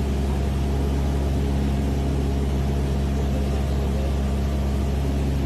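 A steady low mechanical hum with several held tones, unchanging in level.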